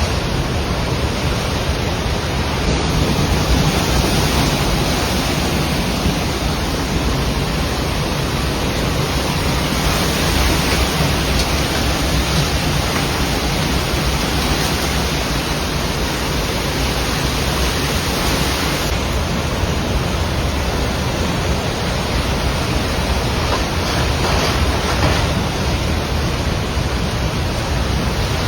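The Bhote Koshi river in flood: a loud, steady rush of fast, turbulent floodwater.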